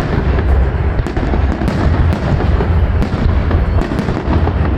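Fireworks salute going off continuously: many sharp cracks over a deep, unbroken rumble of booms.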